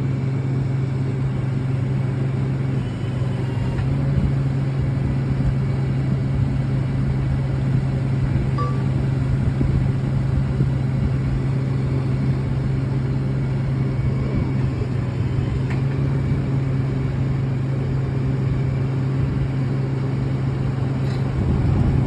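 Vehicle engine idling steadily, a constant low hum with no revving.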